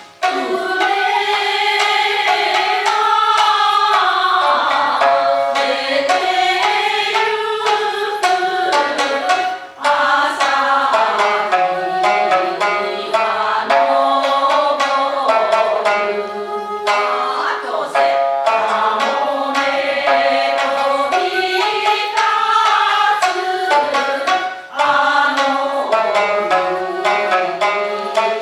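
Japanese folk song (min'yō) sung with shamisen accompaniment: long, wavering vocal lines over quick plucked shamisen strokes, with short breaks between phrases. Shakuhachi flute may also be part of the accompaniment.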